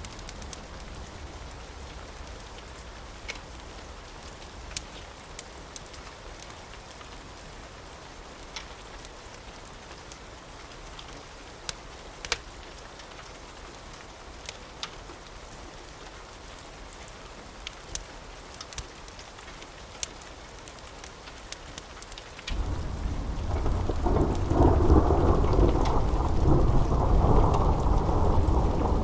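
Steady rain hiss dotted with scattered sharp pops. About three-quarters of the way through, a loud rumble of thunder breaks in suddenly and keeps rolling to the end.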